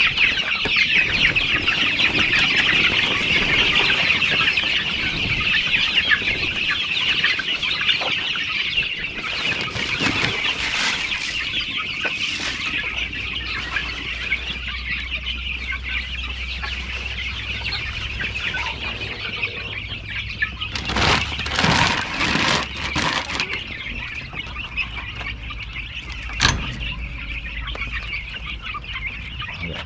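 A flock of chickens clucking and chattering at feeding time, a dense chorus that thins out after the first several seconds. A few knocks come near the two-thirds mark, and a sharp click follows a little later.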